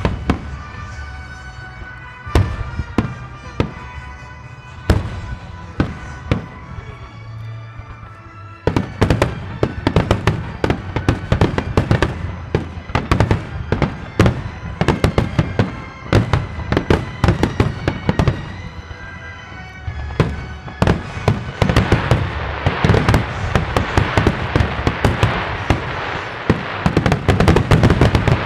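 Fireworks finale fired to music: scattered shell bursts over a music track at first, then from about eight seconds in a dense rapid barrage of bangs, with a crackling hiss of glittering shells building near the end.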